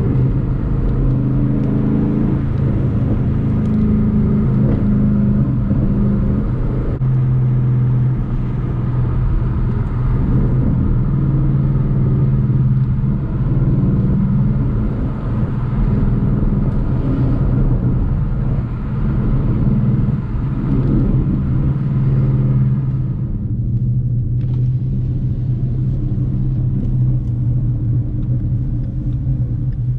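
Ford Mustang GT's V8 engine and exhaust running at a steady cruise, the engine note easing and building again several times, over a constant hiss of tyre and road noise.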